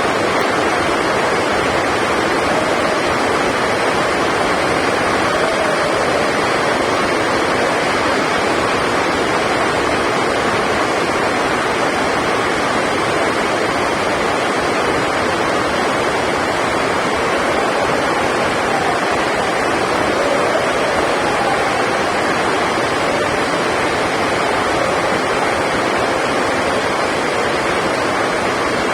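Heavy rain on the sports hall roof, a loud, steady rushing noise that does not let up.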